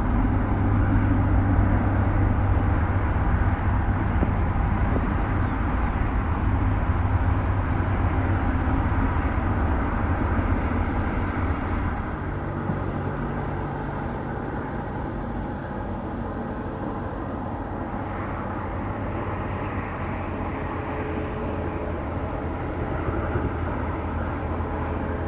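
Jet engines of an Airbus A320neo (CFM LEAP-1A) running with a steady low hum and hiss, easing slightly about halfway through.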